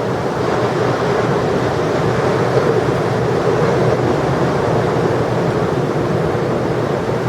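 Ocean surf and wind on the microphone, a steady rushing noise.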